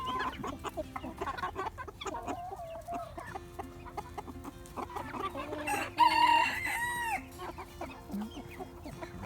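A flock of young chickens clucking and calling, with a young cockerel crowing once about six seconds in, the loudest sound, ending on a falling note.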